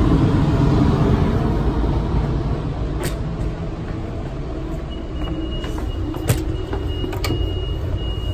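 Low rumble of a train heard inside a Metrolink bilevel passenger car, easing off over the first few seconds. A few sharp knocks sound, the loudest about six seconds in, and a steady high whine sets in about five seconds in.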